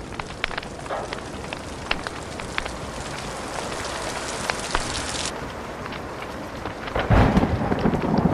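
Wood fire crackling with sharp pops over a steady hiss of rain. About seven seconds in, a loud low rumble of thunder starts.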